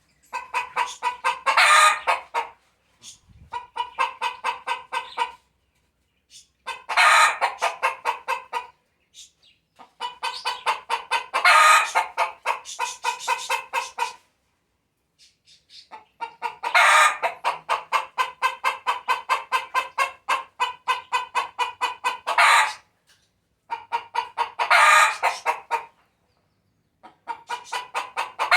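Domestic hen cackling: about seven runs of quick clucks, each ending in a loud drawn-out squawk, with short pauses between them. This is the cackle a hen makes around laying an egg.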